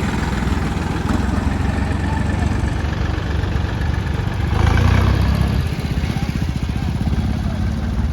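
Diesel tractor engine running steadily with a low pulsing beat, swelling louder for a moment about halfway through.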